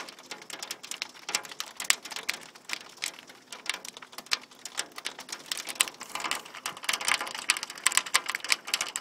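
Heavy rain mixed with pea-sized hail striking a hard surface: a dense, irregular patter of many small sharp ticks, growing a little thicker in the last couple of seconds.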